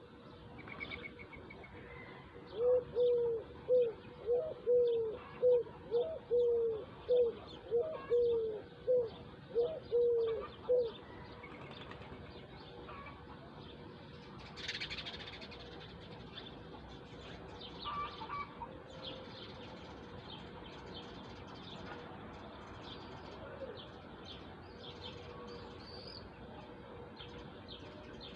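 A bird gives a run of about fifteen short, low hooting notes, about two a second, then stops; smaller birds chirp throughout.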